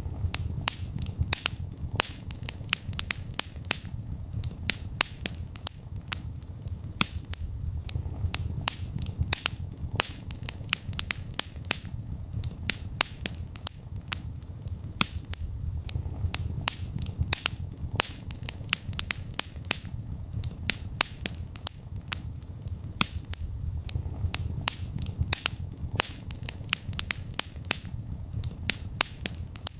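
Wood fire in a fireplace crackling: many sharp pops and snaps, several a second and uneven, over a steady low rumble of burning.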